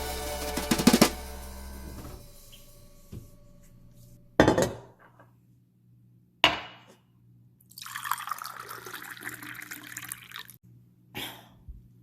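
Kitchen work sounds: a few sharp knocks of objects set down on a hard surface, and a tap running for about three seconds in the second half. Background music fades out at the start.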